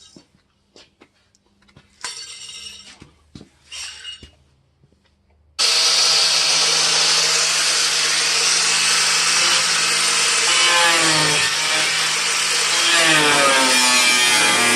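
An electric power tool cutting sheet metal starts abruptly about five and a half seconds in and runs loud and steady, its pitch dipping and recovering as it bites. Before it, a few short scraping sounds, two of them louder.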